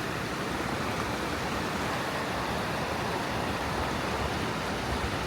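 Steady rush of flowing river water in the Nevis Gorge, an even hiss with no change.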